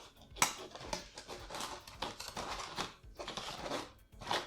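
Thin cardboard pieces being handled and slotted into each other: irregular rustling and scraping of card on card, with a sharp click about half a second in.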